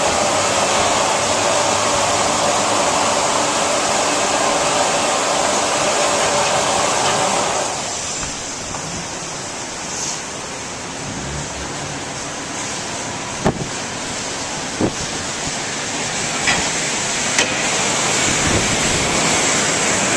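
Automatic car wash heard from inside the car: a loud steady rush of water spray and washing machinery on the body, which drops off suddenly about eight seconds in. A few sharp knocks strike the car in the quieter stretch that follows.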